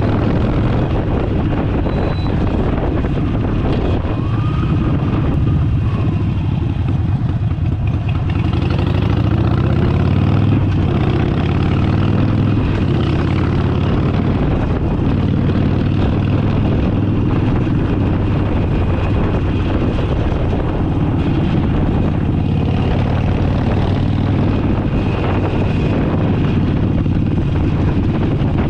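Harley-Davidson Forty-Eight's air-cooled V-twin engine running under way, its pitch shifting up and down with the throttle in the first third.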